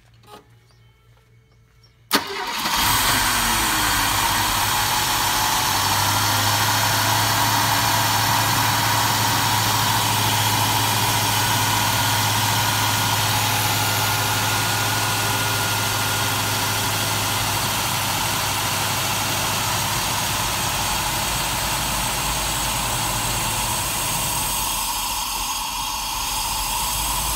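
Mercedes-Benz 450SE's 4.5-litre fuel-injected V8 starting about two seconds in, its speed rising briefly as it catches, then idling steadily; the engine still runs rough.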